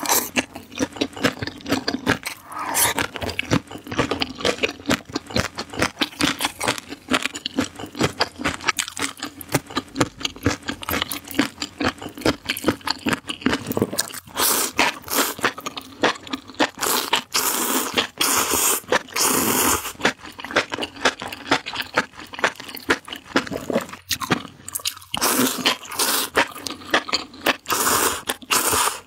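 Close-miked eating: rapid wet chewing and crunching of foil-baked spicy enoki mushrooms, with a few longer slurps of the mushroom strands about two-thirds of the way through.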